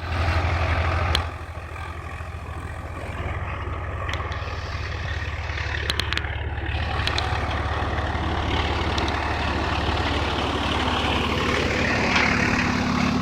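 Swaraj tractor diesel engines running steadily, louder for about the first second and then settling to an even low hum.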